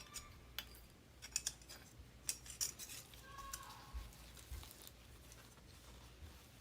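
Faint scattered clicks and light metal clinks of small furnace blower-motor mounting parts being handled, mostly in the first few seconds, dying away toward the end.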